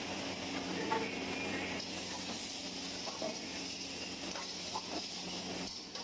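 Chicken pieces in red sauce sizzling in a hot steel wok over a gas burner, stirred with a steel ladle, with a few light scrapes and clinks of the ladle against the wok.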